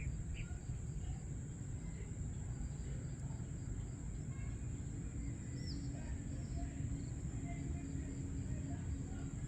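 Dawn nature ambience: a steady high-pitched insect drone with scattered short bird chirps over a low rumble.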